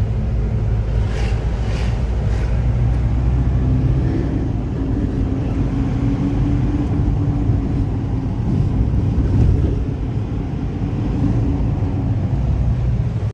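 A moving vehicle's steady low rumble, with an engine hum that rises slightly in pitch partway through and a few brief ticks or knocks near the start.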